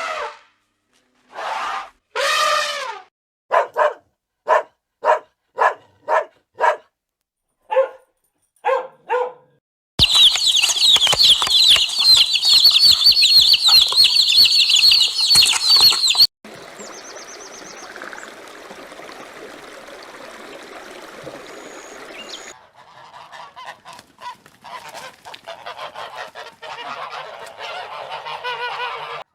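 A series of different animal-call recordings cut together: two long pitched calls, then a run of about eight short calls, then a loud, dense, high-pitched chorus for about six seconds that cuts off suddenly, a quieter noisy stretch, and rapid repeated calls near the end.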